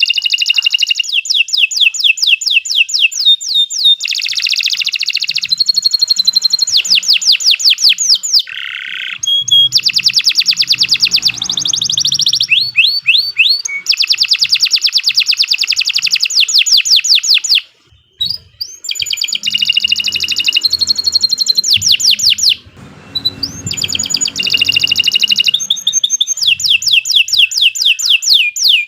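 Domestic canary singing a long, continuous song of fast trills and rapid repeated notes, with a brief pause near the middle and another shortly after.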